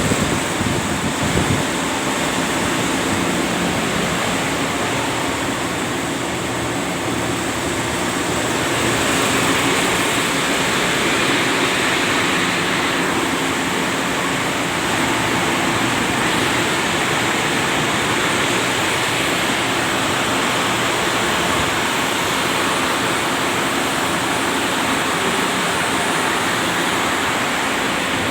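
Ship's engine room with its diesel machinery running: a loud, steady, dense din that swells slightly about eight seconds in.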